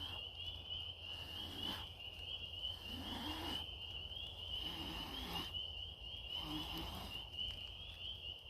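Frogs calling in a steady, high, pulsing trill chorus that never breaks, with a few fainter, lower calls in the middle.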